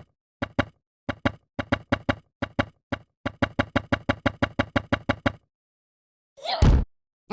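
Lego bricks clicking into place, a quick run of short sharp clicks, many in pairs, for about five seconds. Near the end comes one louder thump.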